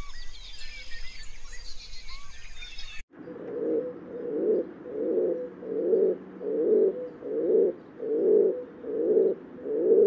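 A weaver chatters in quick high chirps for about three seconds. It cuts off abruptly to a crowned pigeon giving deep, low coos in a steady series, a little faster than one a second.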